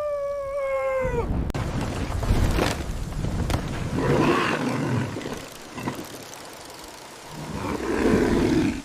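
A gorilla-like creature roaring twice, about four seconds in and again near the end, over a low storm rumble. A held, slightly falling howl cuts off about a second in.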